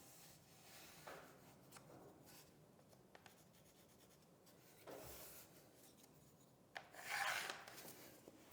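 Faint scratching and rubbing from handwork on vinyl flooring planks, with a sharp click and then a louder scrape about seven seconds in.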